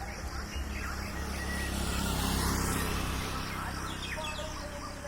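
A flock of birds chirping together in a tree, series of quick repeated chirps. A vehicle passes by in the middle, its noise swelling to a peak about halfway and fading, covering the birds until they come through again near the end.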